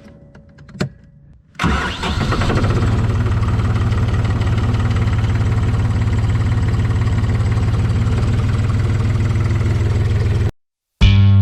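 Tractor engine starting with a sudden catch about a second and a half in, then running steadily at a constant speed; the sound cuts off abruptly near the end, where music begins.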